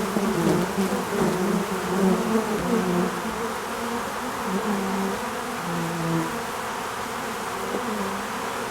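Insects buzzing: several overlapping buzzing tones that waver in pitch, over a steady hiss.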